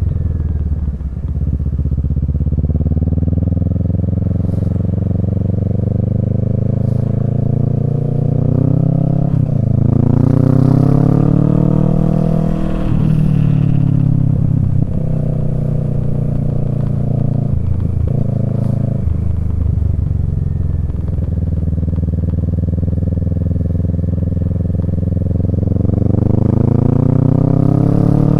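Kawasaki Z650's parallel-twin engine through a Yoshimura Alpha exhaust, under way with the revs rising and falling as the throttle is worked. The pitch climbs through the gears several times, with short dips at the shifts.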